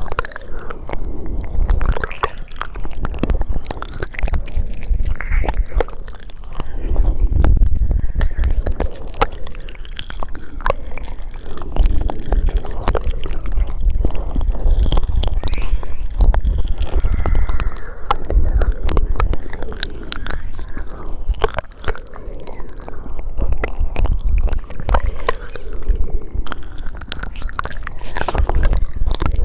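ASMR mouth sounds very close to the microphone: a continuous run of wet clicks, smacks and tongue sounds, with a low rumble underneath.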